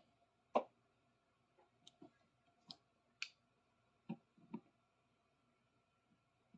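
Scattered faint clicks and light knocks, about eight in all and the loudest about half a second in, from hand-working a seized adjustable wrench part that is just starting to move.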